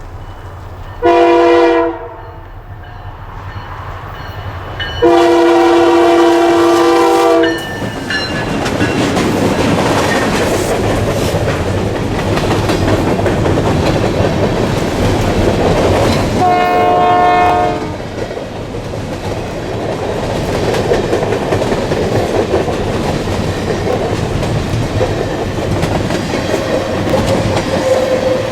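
Diesel locomotive horn sounding three times, a short blast, a long blast, then a shorter one, as a freight train passes with steady wheel and rail noise, clickety-clack over the rail joints.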